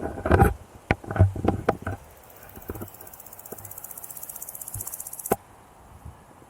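A cluster of sharp knocks and clicks, then a grasshopper stridulating: a fast, even, high-pitched pulsing buzz that grows louder over about three seconds and stops abruptly with a click.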